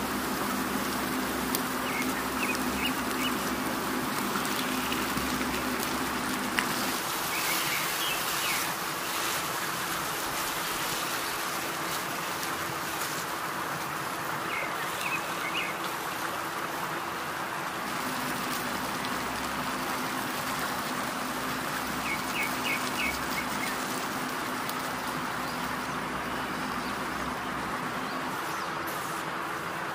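Chicken sizzling steadily as it fries in hot oil in a pan, over a low steady hum. Several short clusters of bird chirps come through now and then.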